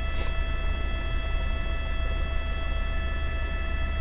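Steady cabin noise of a news helicopter heard through the reporter's open microphone: a deep, even rumble with several steady high whining tones over it, and a brief burst of hiss just after the start.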